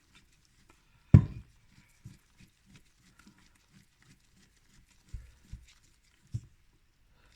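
Hand tools working on a pellet stove smoke extractor fan motor as its housing screws are tightened back in: one sharp knock about a second in, then faint light ticking and a few soft knocks.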